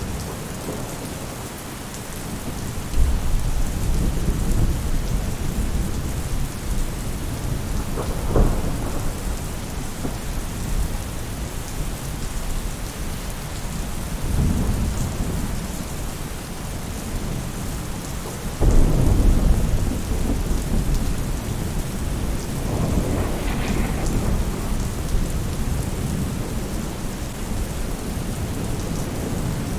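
Steady rain falling on a roof, with thunder rolling several times over it: a sharp crack about a third of the way in and the loudest rumble breaking in suddenly about two-thirds through.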